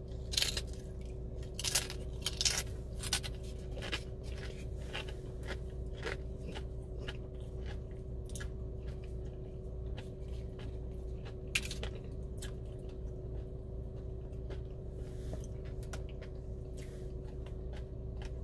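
A person chewing a crunchy chip loaded with cheesy bean dip, close to the microphone. Crisp crunches come thickest in the first few seconds, then thin out into slower chewing.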